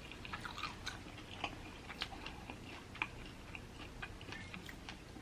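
Faint, close-up chewing of a sauced fried chicken wing: a run of small wet clicks and mouth sounds at an uneven pace.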